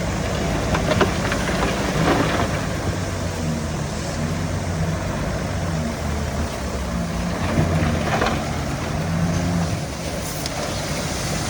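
Heavy earthmoving equipment's diesel engine running steadily, its note wavering slightly, with a few short knocks along the way.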